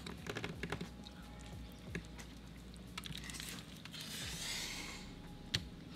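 Close-up eating sounds: chewing bites of burrito, with small wet mouth clicks and light taps of utensils. A soft rushing hiss comes about four seconds in.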